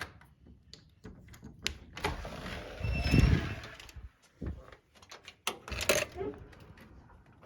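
Clicks and knocks inside a car, with a louder rustling stretch and a brief squeak about three seconds in, then another cluster of knocks near the six-second mark.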